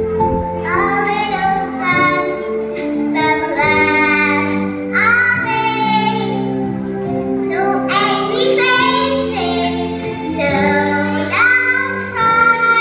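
A child singing a song over an instrumental backing of held chords.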